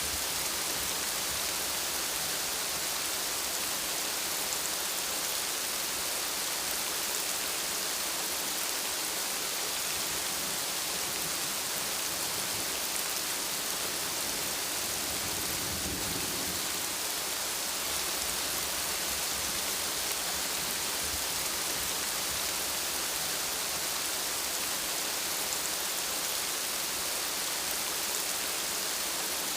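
Steady rain falling, a dense even hiss of drops. About halfway through there is a brief low rumble.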